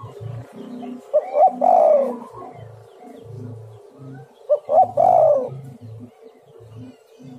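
Spotted dove (tekukur) singing: two phrases of its coo, each two short notes and then a longer falling note, about a second in and again about four and a half seconds in, with lower, quieter cooing between them.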